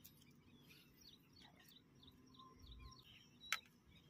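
Near silence with a faint small bird chirping, a run of short falling notes at about five a second. A single sharp click comes about three and a half seconds in.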